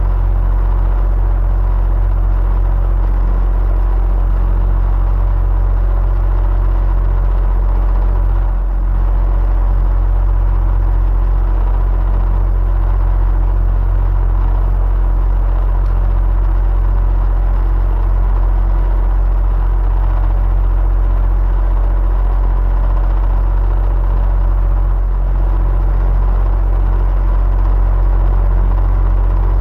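Electric fan running steadily: a constant low whir and rumble with a faint steady hum.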